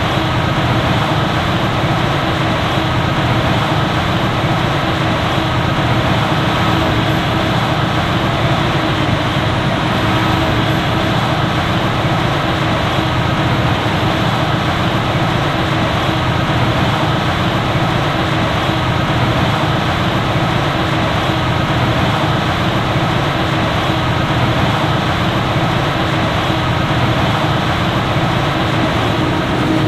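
Heavy farm machinery running steadily at work on a maize silage harvest, a constant hum with a steady tone under the noise.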